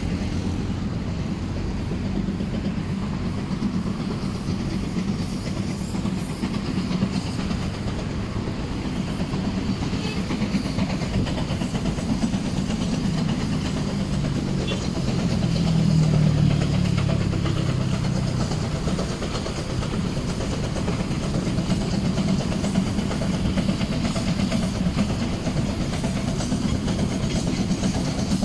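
A train hauled by a 1947 Baldwin Mikado steam locomotive running along the line: a steady rumble with wheels clattering over the rail joints. It swells louder about halfway through.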